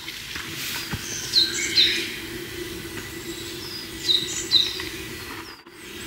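Small birds calling: short high chirps that slide down in pitch, coming in pairs and little clusters about a second and a half in and again around four seconds in.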